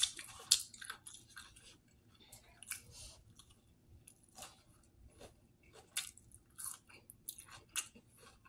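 A man chewing a mouthful of sub sandwich close to the microphone: a run of irregular short mouth clicks.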